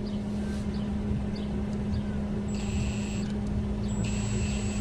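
Electric drill running steadily in reverse, turning a screw extractor to back a broken bolt out of the engine. A higher whine comes in twice in the second half.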